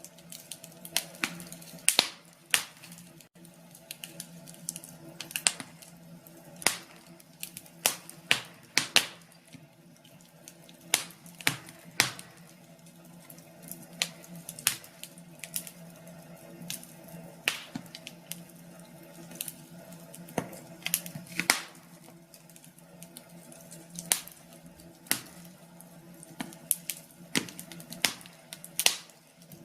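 Wood fire crackling: irregular sharp pops and snaps, one to a few a second, over a faint steady hum.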